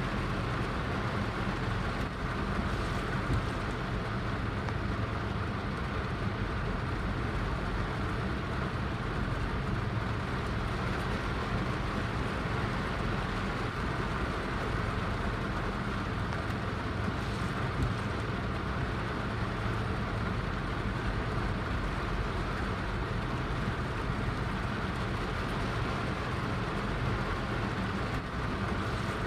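Steady heavy rain: a constant, even hiss with a low rumble underneath.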